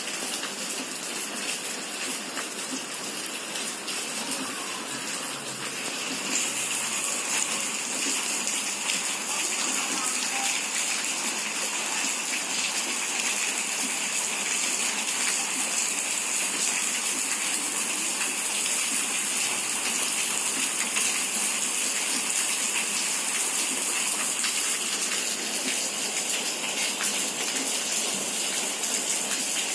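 Steady rush of rainwater, with no distinct events, stepping up in level about six seconds in.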